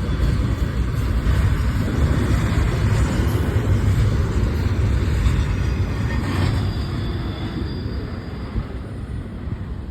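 Freight train rolling past, a steady rumble that is loudest in the middle and eases off over the last few seconds.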